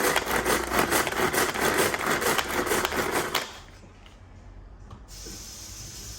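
Pull-cord manual food chopper being worked on chopped onion, the blades and pieces rattling and whirring in the plastic bowl. The sound stops suddenly about three and a half seconds in.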